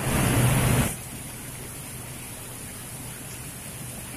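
Heavy rain falling steadily, with water streaming off a roof edge and splashing onto wet concrete. A louder rush of noise fills the first second before the sound settles to an even hiss.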